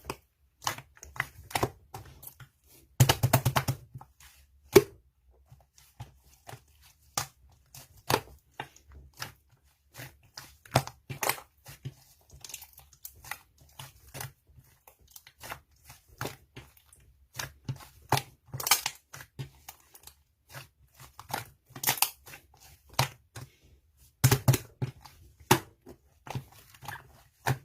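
Hands playing with slime: a dense, irregular run of short sticky clicks and crackles, with louder crackly stretches about three seconds in and near the end.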